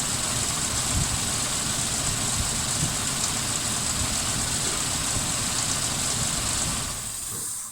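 Suzuki Grand Vitara 2.5-litre V6 idling with a misfire, one injector not working, then switched off near the end as the running noise dies away.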